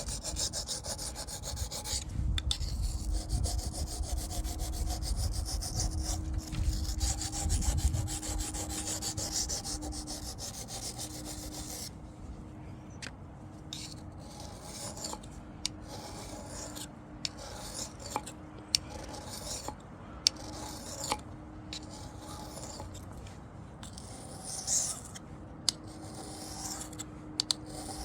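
Steel knife blade stroked rapidly back and forth across a Wästikivi sharpening stone, a continuous rasping scrape as a dull edge is honed. After about twelve seconds the strokes turn softer and more spaced out, with short pauses and small ticks between them.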